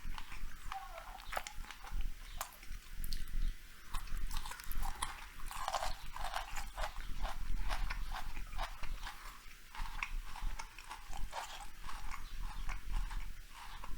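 A person chewing large sushi rolls close to a lapel microphone: wet mouth clicks and smacks with some crunching, in an irregular rhythm.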